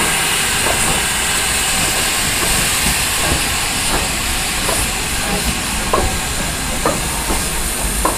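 Steam locomotive hissing steadily as steam escapes, with a few faint clicks now and then.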